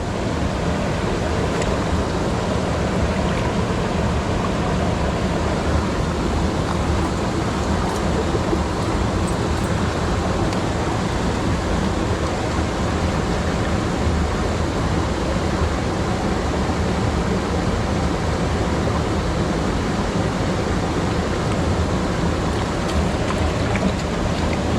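A mountain stream running over rocks, a steady, unbroken rush of water.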